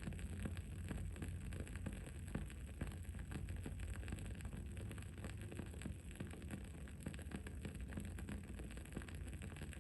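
Wood-wick candle flame crackling: a run of small, irregular quick pops over a steady low background hum.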